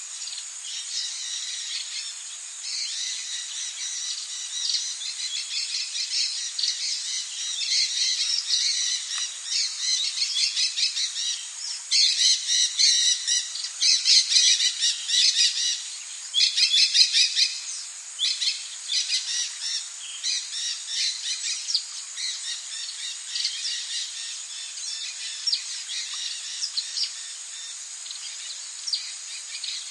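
Tropical rainforest ambience: birds calling in rapid chattering runs, loudest in the middle, over a steady high-pitched insect drone.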